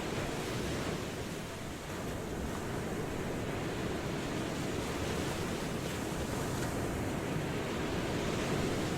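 Ocean waves washing in: a continuous rush of surf that eases a little about two seconds in and swells again near the end.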